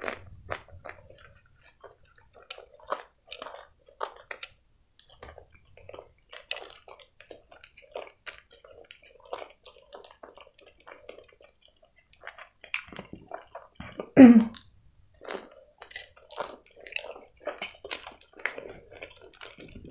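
Chewing a hot dog in a toasted bun: many short, irregular mouth clicks and smacks, with one louder sound about two-thirds of the way through.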